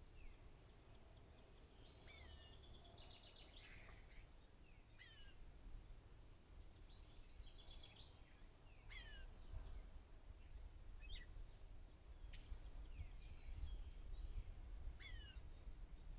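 Songbirds calling: a series of short, sharply falling whistles, with two rapid chattering rattles about two seconds in and again about seven seconds in, over a steady low rumble.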